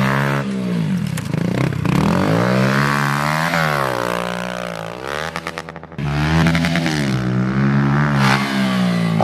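Pit bike engines revving up and down as they ride the track, the pitch rising and falling over and over. The sound drops away briefly just before six seconds in, then picks up again.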